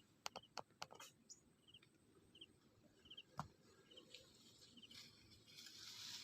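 Near silence with a small bird's faint, short high chirps, each made of two or three quick notes, repeating about once or twice a second. A few soft clicks are mixed in.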